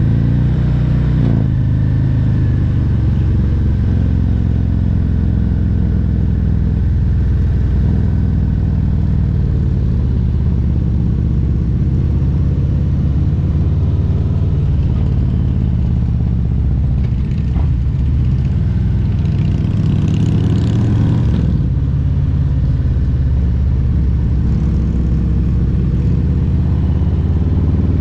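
Harley-Davidson Milwaukee-Eight 114 V-twin engine of a 2022 Road Glide Special running under way, a steady low engine note. Its pitch shifts near the start and rises again near the end as the throttle changes.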